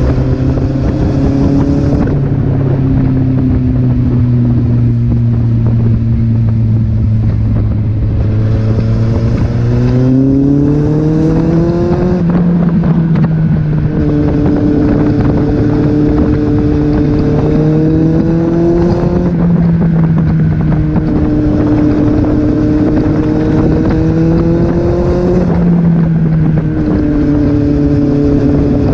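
Kawasaki Z800's inline-four engine under way with wind rushing over the microphone: it holds a steady note, then pulls up in pitch under acceleration and drops back at upshifts three times, about twelve, nineteen and twenty-six seconds in.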